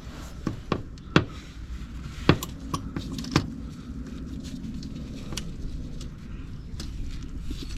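Sharp metallic clinks and knocks from a claw-style oil filter wrench being handled and fitted onto a spin-on oil filter, about six strokes in the first three and a half seconds, over a low steady hum.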